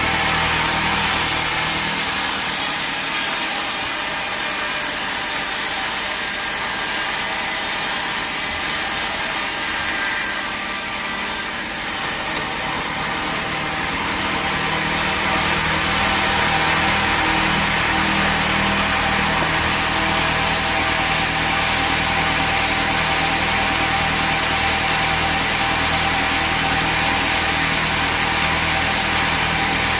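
A sawmill saw cutting through a log with a steady, loud, high-pitched rasp. The cutting sound drops away abruptly about eleven and a half seconds in, leaving the mill machinery running with a steady low hum.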